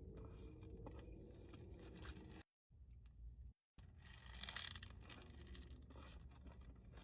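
Faint eating sounds close to the microphone: quiet chewing and light paper rustling, a little louder about four and a half seconds in. The sound cuts out completely twice, briefly, near the middle.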